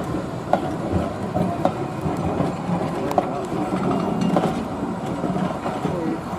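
A train running on the rails, with irregular clicks from the wheels over the track and people's voices faint in the background.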